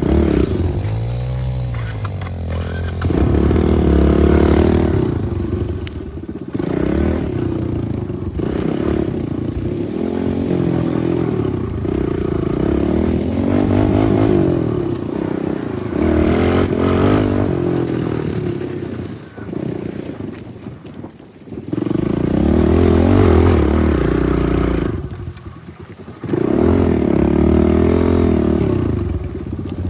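Pit bike engine being ridden hard, revving up and falling back again and again as the throttle is opened and closed. It drops to a lower, quieter pull a couple of times in the second half.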